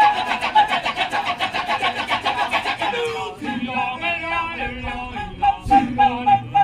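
Kecak chorus of many male voices chanting a fast, even 'cak-cak-cak' rhythm, about seven strokes a second. About three seconds in the chant gives way to sung, held notes moving step by step, with a short burst of rhythmic chanting near the end.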